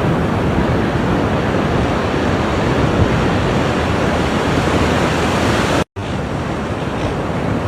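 Ocean surf washing onto the shore, a steady loud rush of breaking waves. About six seconds in, it cuts out for an instant and comes back slightly quieter, an edit splice in the recording.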